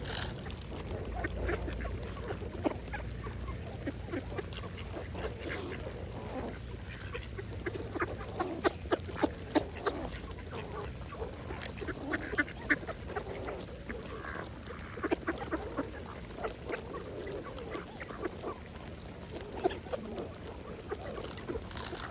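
Mallard ducks feeding: low quacks and chattering calls mixed with many quick, sharp clicks and pecks, thickest around the middle.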